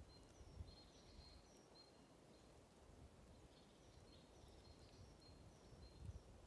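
Near silence with faint, distant birdsong: runs of short high chirps, one in the first two seconds and another from about four to six seconds in, over a low rumble.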